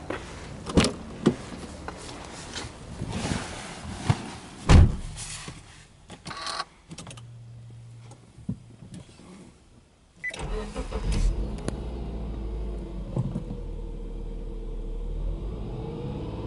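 Car door opening and someone getting in, with a heavy door thump about five seconds in, then a brief hum as the ignition comes on. About ten seconds in, the Subaru Legacy Touring Wagon 2.0i's 2.0-litre flat-four cranks, catches and settles into a steady fast idle of about 1,800 rpm on a cold engine.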